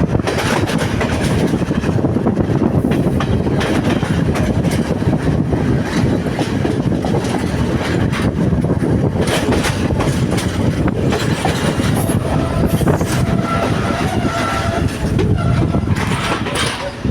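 Sri Lanka Railways Class S11 diesel multiple unit running on the line: a steady low rumble with the wheels clacking over rail joints.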